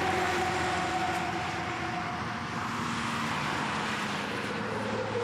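An engine running over steady rushing noise. Its whine slides slowly down, then climbs again near the end.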